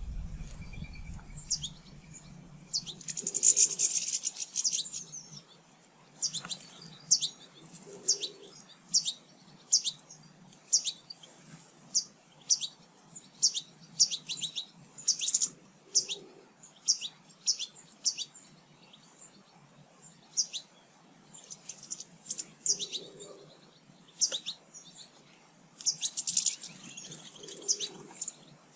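Small garden birds chirping: short high calls, one or two a second, with denser bursts of twittering about three seconds in and again near the end.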